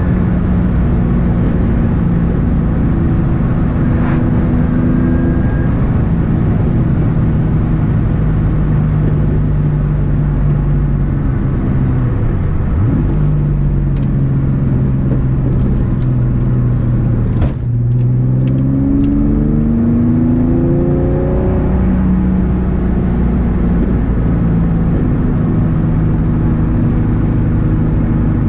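VW Golf Mk2 with a VR6 engine, engine and exhaust heard from inside the cabin while driving: running at steady revs, then a brief dip with a few clicks about two-thirds through, like a gear change, after which the revs rise for a few seconds under acceleration and settle.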